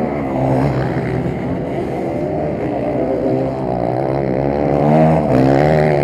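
Several motocross bikes' engines revving hard, their overlapping pitches climbing and dropping through the gears. The loudest surge comes about five seconds in.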